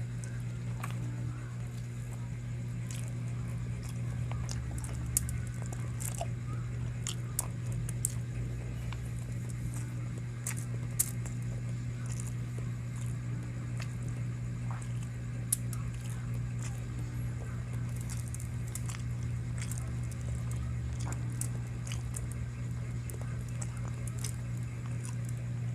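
Close-miked chewing and biting on spicy chicken, with scattered sharp crunches and mouth clicks over a steady low hum.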